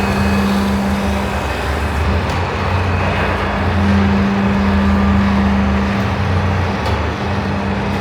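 Radial drilling machine running under load while drilling metal, a steady machine hum with a low tone that drops out and returns a couple of times.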